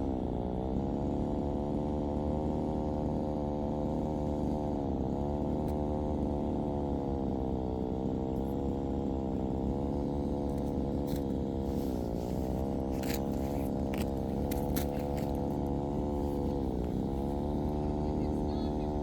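Chainsaw engine running steadily, its pitch sagging and recovering about four times as the chain bogs down in the cut.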